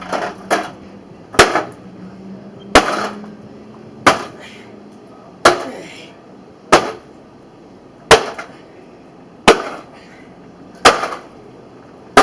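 Hammer striking a microwave oven over and over: about nine heavy blows, evenly paced at roughly one every second and a half, each with a short metallic clatter after it.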